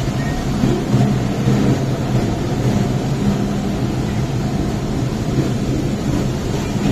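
Disneyland Resort Line M-Train electric multiple unit pulling out along the platform, a steady low motor hum over running-train noise, with rain falling.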